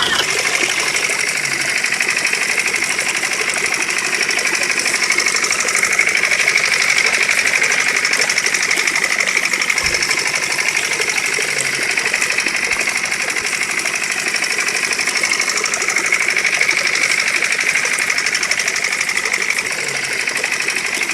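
Small electric motor running steadily with a fast, even buzz, as in a DIY miniature tractor or mini water pump.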